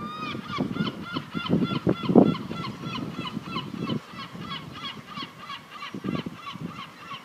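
A bird calling in a fast, steady series of short honking notes, about four to five a second.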